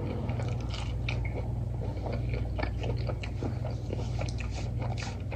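A person biting and chewing a crunchy piece of breaded fried food close to the microphone, with many small crisp crunches, over a steady low hum.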